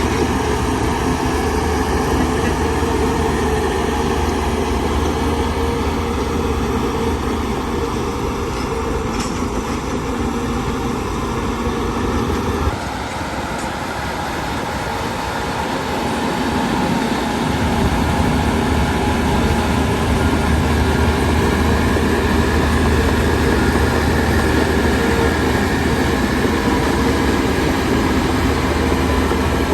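Heavy diesel earthmoving machinery running steadily, most likely the bulldozer's engine working under load. The deep engine sound drops out suddenly about thirteen seconds in and builds back a few seconds later.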